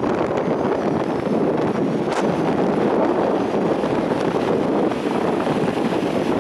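Storm-force wind buffeting the microphone, a steady rushing noise, with the surf of a stormy sea beneath it.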